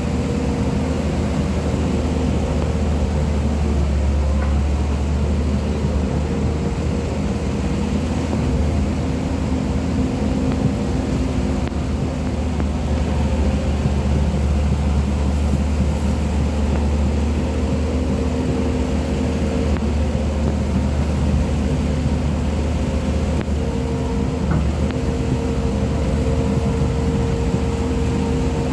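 Excavator's diesel engine running steadily at a constant speed, a continuous low drone with a steady hum over it.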